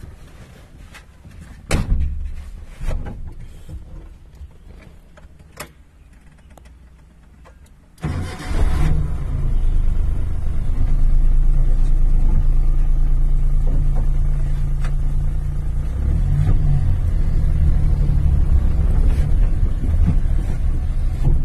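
Scattered knocks and clicks inside a Suzuki car, then about eight seconds in the engine is cranked and catches with a sudden loud burst, and keeps running steadily, its note shifting briefly past the middle.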